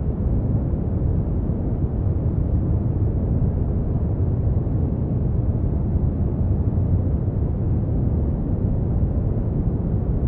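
Synthetic brown noise: a steady, deep rumbling hiss with most of its weight in the low end and little above a few kilohertz, unchanging throughout.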